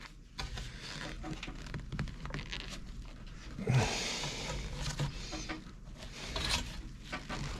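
Sheet-metal patch panel being handled and tried against the truck's inner fender: scattered light metal clicks and knocks, with a louder scrape about four seconds in.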